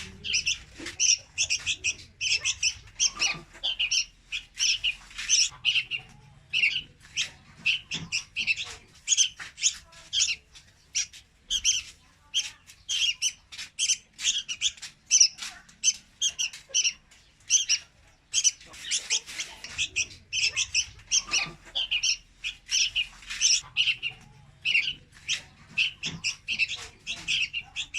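Juvenile red-whiskered bulbul calling: a fast, continuous run of short, high chirps, several a second.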